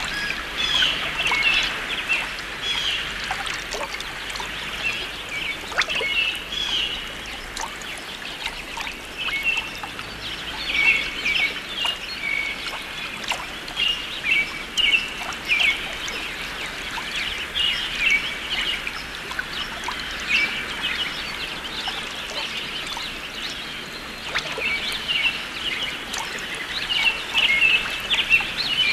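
Songbirds singing in short, quickly repeated chirping phrases that come in clusters every few seconds, over a steady hiss.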